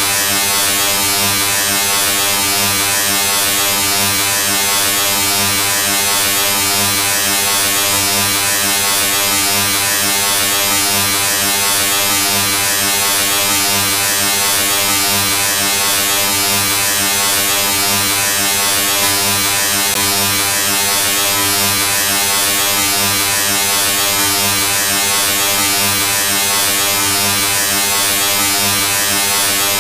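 A steady, unchanging buzz with a hiss over it, holding the same pitch and loudness throughout.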